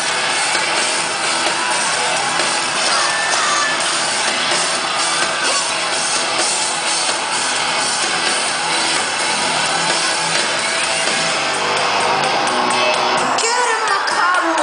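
Live rock band playing through a concert PA in a large hall, heard from the audience, with the crowd shouting and singing along.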